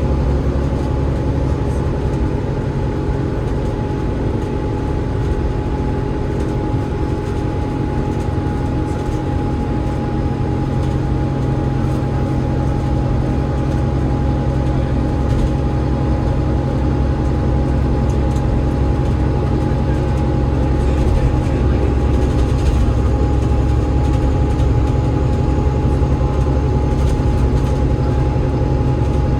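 Enviro500 MMC double-decker bus running steadily at speed: the low drone of its Cummins ISL8.9 diesel engine and road noise, with a thin steady whine held throughout.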